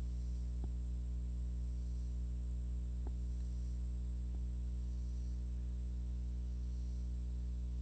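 Steady low electrical hum with many even overtones and a faint high whine above it, unchanging throughout. It is broken only by three faint clicks, one under a second in, one about three seconds in and one a little over four seconds in.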